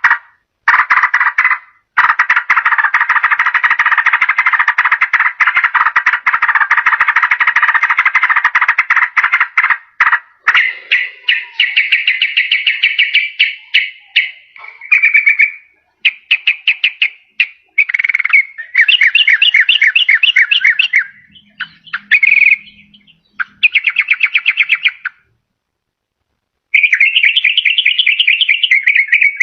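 Yellow-vented bulbul song used as a lure call: a long, loud run of dense rapid chattering notes, then shorter fast trilled phrases broken by sudden gaps.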